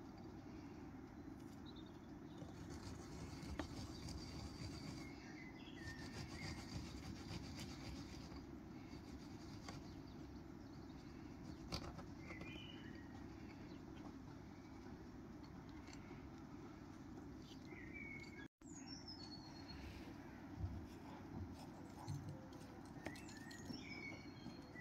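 Quiet outdoor ambience: a steady low background hum with small birds chirping briefly every few seconds, and a few faint clicks of kitchen handling.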